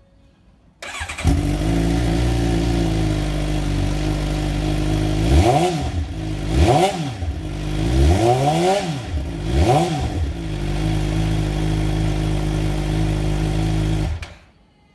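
Suzuki GSX-R750's inline-four engine breathing through a Yoshimura R11 carbon exhaust, started about a second in and settling into a steady idle. Through the middle it is blipped four or five times, each rev rising and dropping back quickly, then it idles again and is switched off shortly before the end.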